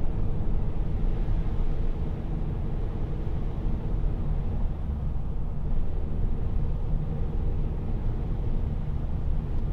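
Steady engine and tyre rumble of a car driving uphill, heard from inside the cabin.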